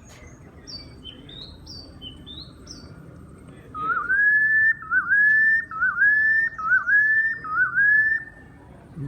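Recorded bird calls played back at a museum display. Faint high chirps come first. From about four seconds in there are six loud whistles, each a short dip and then a long rising note, ending a little after eight seconds.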